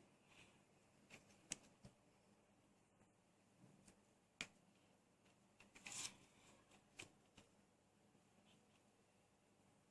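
Near silence with a handful of faint, scattered clicks and taps from hands working small pieces of plasticine, the loudest about six seconds in.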